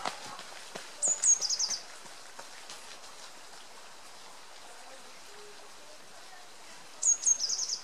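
A small songbird sings a short high phrase twice, about six seconds apart: two high notes, then a quick run of four or five slightly lower notes. A faint steady hiss runs underneath.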